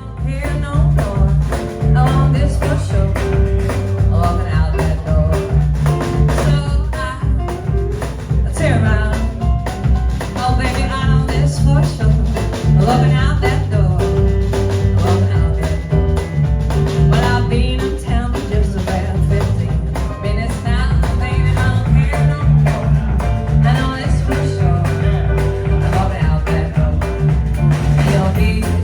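A song with a singing voice and strong bass, played back through an LD Systems DAVE G4X PA system (subwoofer with satellite speakers). The music starts suddenly out of silence and plays on at a steady, loud level.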